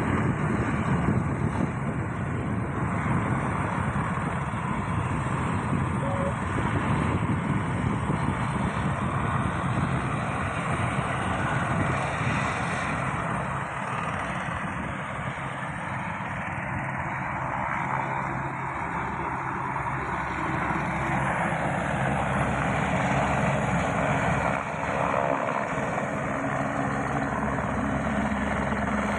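Helicopter in flight, its engine and rotor making a steady, unbroken noise with a low hum underneath.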